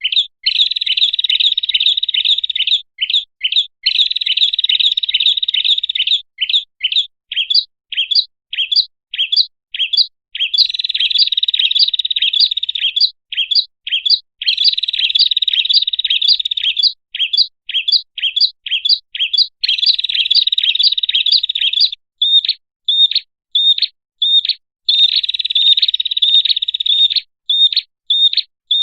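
Prinia (prenjak) calling: long runs of fast, high-pitched trilling alternating with series of separate sharp chip notes, about two a second, with short gaps between phrases. It is a lure recording for calling in prinias.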